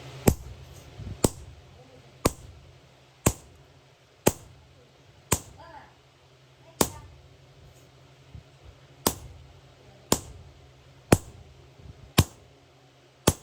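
Hammer blows on iron, about one a second, each a sharp strike with a short ring, with a brief pause midway.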